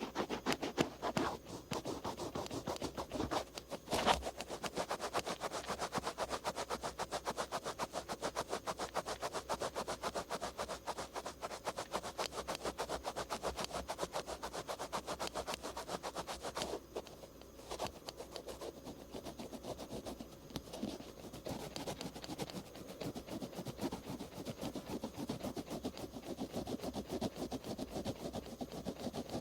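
Cotton swab rubbing over the outer ear in quick, repeated close-up scratchy strokes, with a single louder knock about four seconds in.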